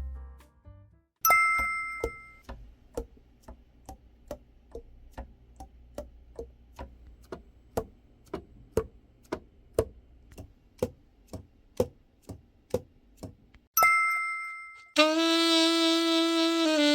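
A bright bell-like ding, then a long run of short, soft pitched pops at two or three a second. A second ding follows, and near the end a Conn 28M alto saxophone starts a held note that steps down in pitch.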